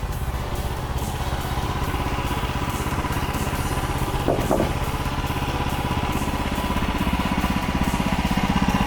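Gasoline engine of a manual bandsaw sawmill running steadily at a constant speed, with an even pulsing beat.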